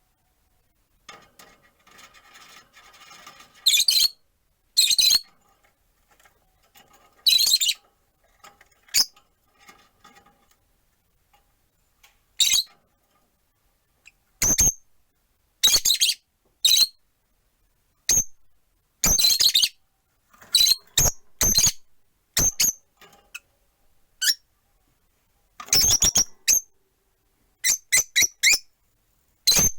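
Rosy-faced lovebirds (Agapornis roseicollis) in a cage, giving sharp high chirps and squawks one by one with short pauses, coming thicker and in quick runs in the second half.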